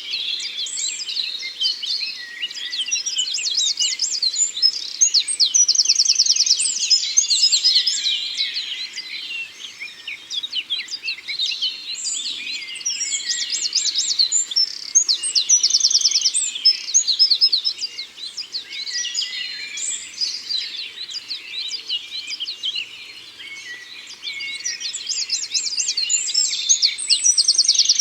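A chorus of several songbirds singing and chirping at once, with overlapping high trills and quick runs of notes that swell and fade in waves.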